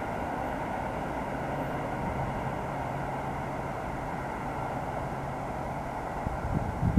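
GE Arrow III electric multiple-unit commuter train rolling away down the track: a steady, even rumble.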